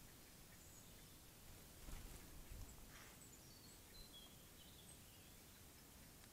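Near silence: steady faint hiss, with a few soft low thumps about two seconds in and faint high bird chirps, some falling in pitch, between about three and five seconds in.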